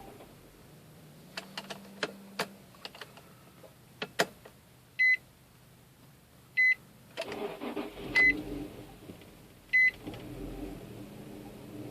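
Inside an Infiniti FX35: a few sharp clicks, then a car warning chime beeping four times, evenly about a second and a half apart. About seven seconds in, the 3.5-litre V6 engine runs up briefly, and from about ten seconds a low, steady engine hum runs on.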